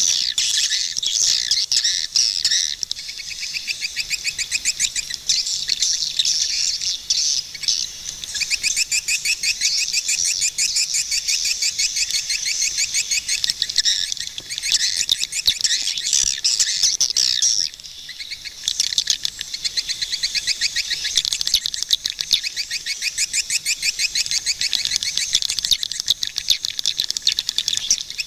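Swiftlets calling in dense, fast-repeating trains of high chirps and twitters, with a brief lull about two-thirds of the way in.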